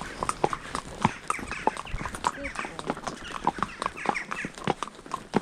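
Hooves of two ridden horses walking on a hard road, an irregular run of clip-clopping hoofbeats, with some short high chirping calls over it in the middle.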